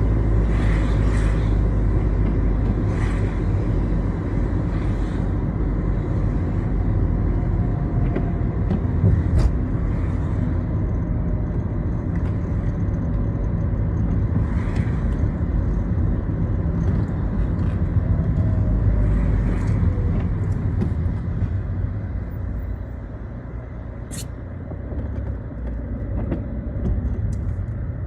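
Citroën Xsara driving on rain-wet roads: steady engine and tyre rumble, with short hissing swishes every so often, quieter for the last few seconds.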